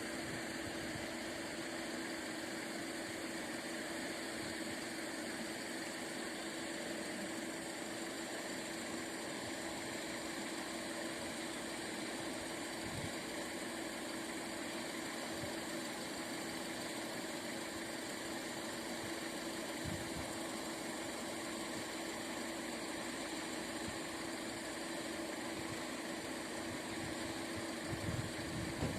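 An engine idling steadily with a constant hum, with a few low knocks near the end.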